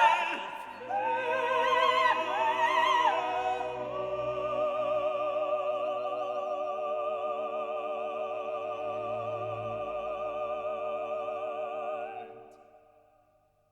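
Operatic classical singing with orchestra, settling onto a long held final chord sung with vibrato that fades away about twelve seconds in.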